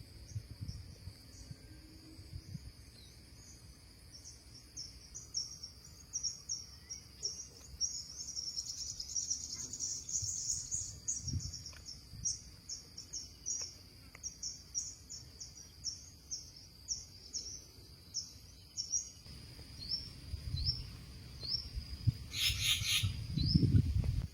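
Birds chirping in quick, short, high notes repeated many times. The chirping is busiest in the middle and thins to single rising chirps near the end, over a low rumble. A brief harsh rustling burst comes near the end.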